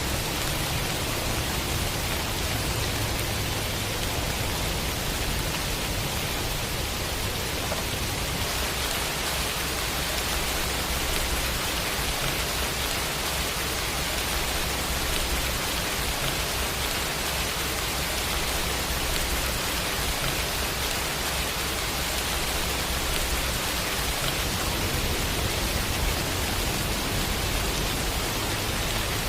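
Steady rain with an even hiss and a low rumble underneath.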